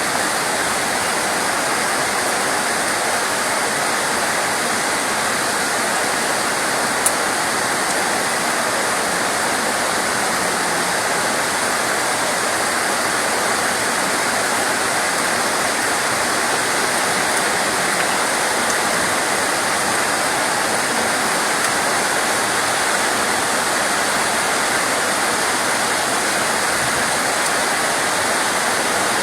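Steady, dense rain: an even, unbroken hiss, with one faint sharp tick about seven seconds in.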